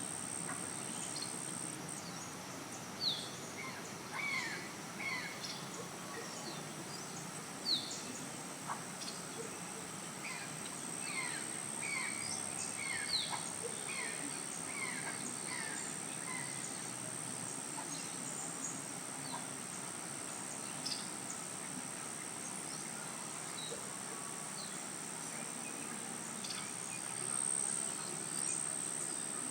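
Outdoor nature ambience: many short, falling bird chirps over a steady, high-pitched insect trill and a soft background hiss.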